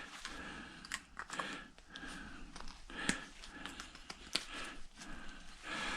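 Scattered light clicks and short scrapes from handling metal scrap parts by hand; no grinder is running.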